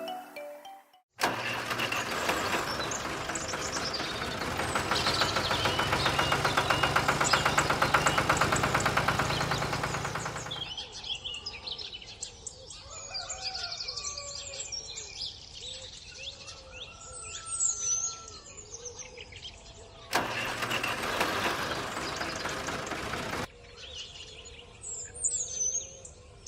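An engine running with a rapid, even beat, growing louder and then cutting off suddenly; birds chirping and whistling after it, with a second short spell of the engine partway through.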